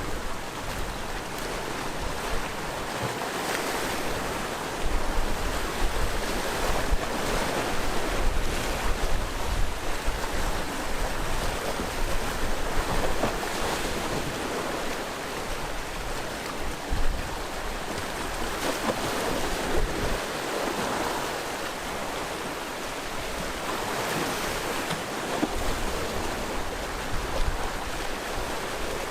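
Sea waves washing ashore in a continuous surf that swells and ebbs every few seconds, with low wind rumble on the microphone now and then.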